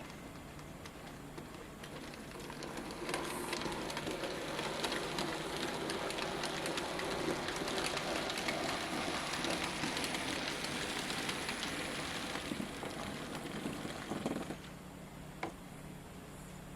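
N gauge model train running past: a rattle of wheels and motor on the track that builds over the first few seconds, holds, and dies away about fourteen seconds in, with a couple of faint clicks after.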